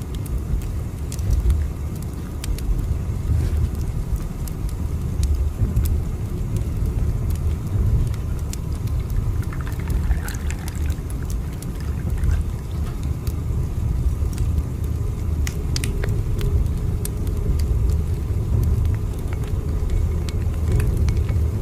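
Train running with a steady low rumble, with scattered light clicks and ticks over it.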